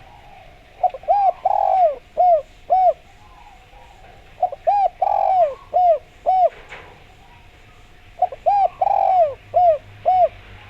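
Spotted dove (derkuku) cooing: three repeated phrases, each of about five or six short coos with one longer coo near the middle, with a pause of a couple of seconds between phrases.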